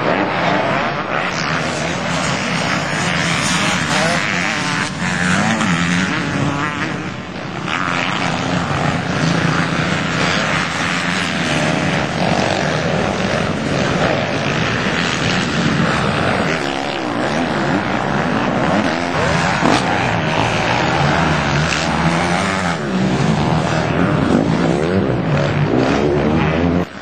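Motocross dirt bike engines running loud on the track, revving up and easing off so the pitch keeps rising and falling.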